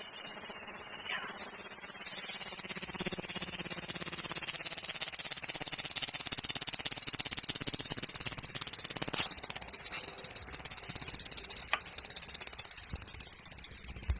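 Cicada calling at close range: a loud, steady, shrill buzz with a fast pulsing throb.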